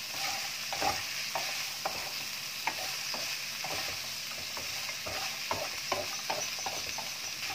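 Salted fish and spices sizzling in a hot wok while a wooden spatula stirs and scrapes through them, knocking against the pan about twice a second.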